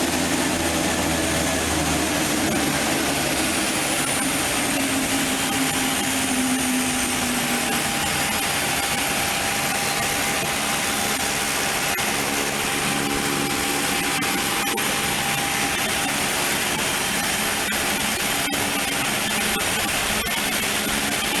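Aircraft engine running steadily: an even, loud noise with a faint whine over it.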